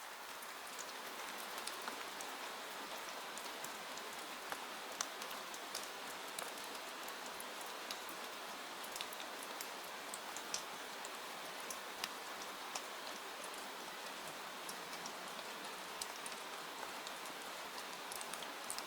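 Steady rain falling, with many small sharp ticks of drops scattered through it.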